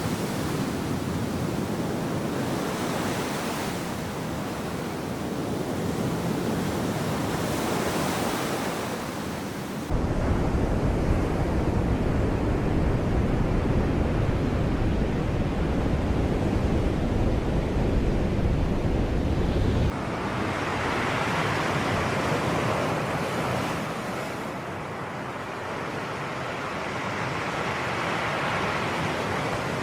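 Sea waves washing onto the shore, a steady surf noise that swells and eases. A deeper rumble, like wind on the microphone, comes in suddenly about ten seconds in and drops out about twenty seconds in.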